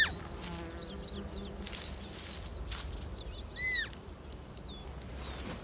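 Hay meadow sounds: small scattered chirps of birds and insects, with one short, high, arched call a little over halfway through.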